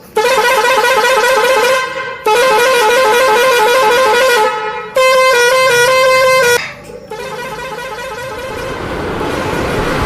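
A musical vehicle horn sounds three long blasts, with a warbling, stepping tune. It is followed by a rushing vehicle noise that swells steadily louder.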